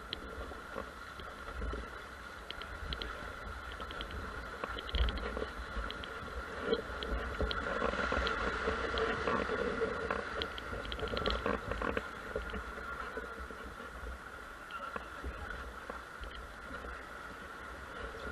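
A ferry underway: a steady low rumble and hum of the ship's engines and machinery, growing somewhat louder for a few seconds around the middle, with scattered faint clicks.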